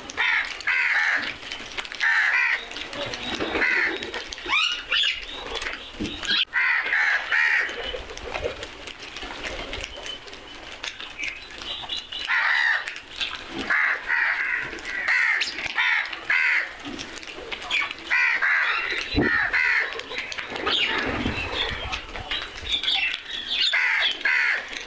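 Crows cawing: harsh calls in bouts of two to four, with short pauses between bouts.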